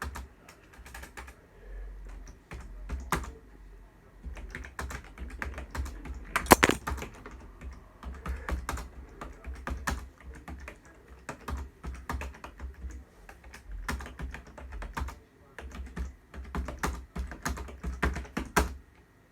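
Typing on a keyboard: a run of irregular key clicks, with one louder knock about six and a half seconds in, over a low rumble.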